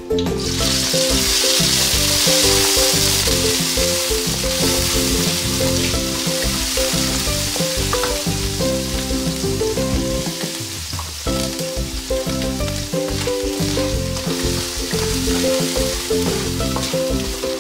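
Chopped onion dropped into hot oil with browned garlic in a wok, sizzling loudly as it goes in, strongest over the first few seconds and then settling, while a wooden spatula stirs it. Background music runs under it.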